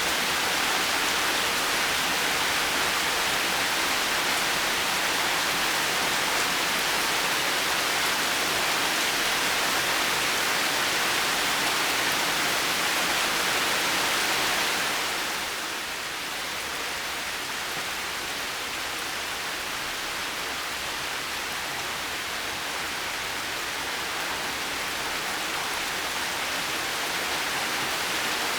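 Heavy rain falling in a steady, dense hiss. About halfway through it eases to a softer, duller patter, then builds slightly again near the end.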